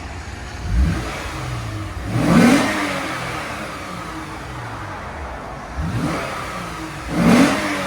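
Lexus RC 350 F-Sport's 3.5-litre V6 revved four times through its exhaust, the second and fourth revs the biggest, settling back to a steady idle between them.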